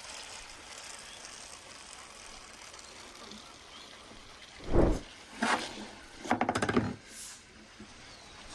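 Handling sounds from the roasted lamb and cooking gear: one dull thud about halfway, another knock, then a quick rattle of about seven clicks and a brief hiss.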